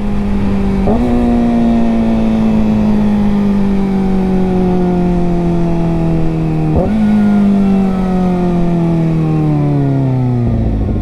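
Kawasaki ZX-4RR's 399 cc inline-four engine running at high revs, its note falling slowly as the bike slows, with two sharp upward jumps in pitch, about a second in and near seven seconds, as it is shifted down. Near the end the note drops away quickly.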